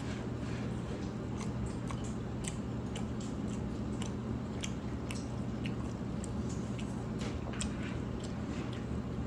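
A person chewing and eating close to the microphone, with many small irregular wet clicks from the mouth, over a steady low hum.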